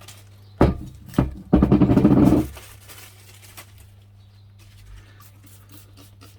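Dog barking: two short barks, then a louder, drawn-out bark lasting about a second.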